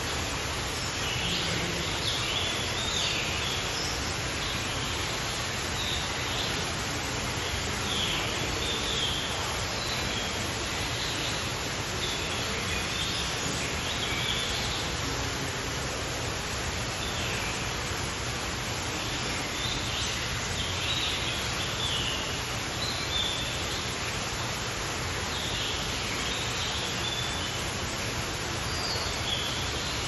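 Birds chirping and calling in short, scattered bouts every few seconds over a steady, even hiss of background noise.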